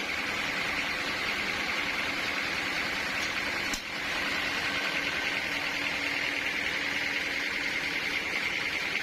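Sawmill machinery running with a steady noise, which dips briefly about four seconds in.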